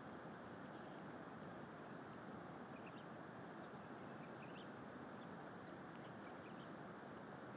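Faint, scattered high chirps of birds, starting about two seconds in, over a steady hiss recorded on a phone.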